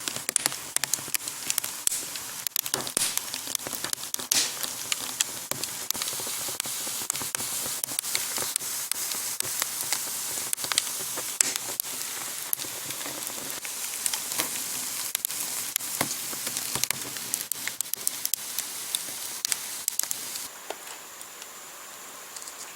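Wood fire crackling and popping in a wood-burning stove: irregular sharp snaps over a steady hiss, easing to a quieter hiss near the end.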